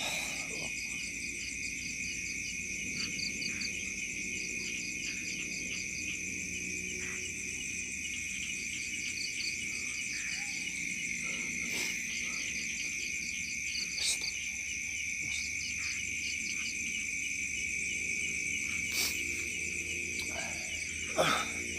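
Chorus of crickets by rice fields: steady shrill trilling at several pitches, with a repeating chirp in short rapid trains every second or two. A few brief clicks break in, and there is a louder knock near the end.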